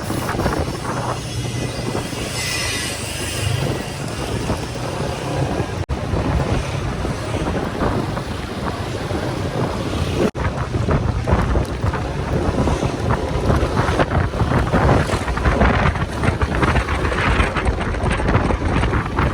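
Wind buffeting the microphone of a motorcycle on the move, over the steady low running of its engine and road noise. The sound drops out for an instant twice.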